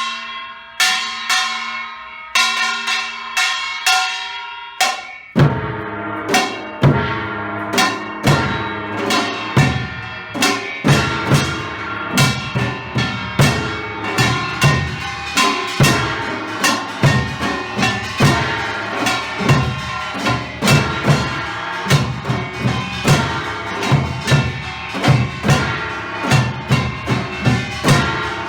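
Samulnori percussion: about five seconds of spaced, ringing gong strokes, then the drums and gongs come in together in a fast, driving rhythm.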